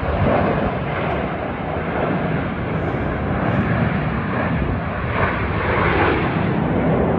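Aermacchi MB-339 jet trainers of the Frecce Tricolori flying: a steady, loud jet-engine noise that holds throughout without any sharp bangs.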